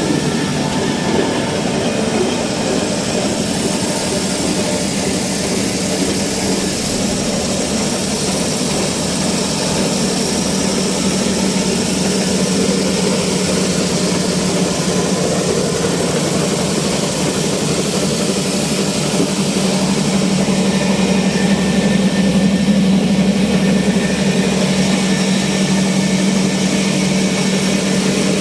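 Old 22/24 HP, 300 RPM stationary diesel oil engine running steadily and loud, growing slightly louder about two-thirds of the way through.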